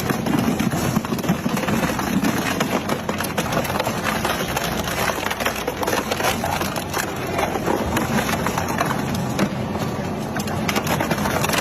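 Heavy shredding machine crushing and tearing material apart, with dense, continuous cracking and snapping that cuts off suddenly at the end.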